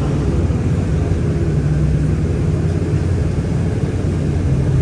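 Inside a moving city bus: steady engine and drivetrain drone with road noise.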